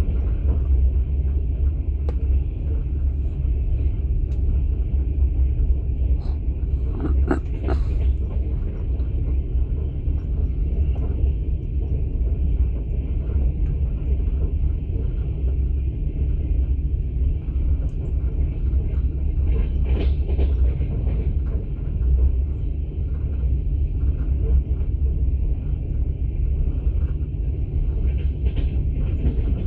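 Steady low rumble of a moving passenger train heard from inside an open-plan sleeping car, the wheels and running gear running evenly. A few brief, sharper sounds come through about a quarter of the way in, about two-thirds of the way in and near the end.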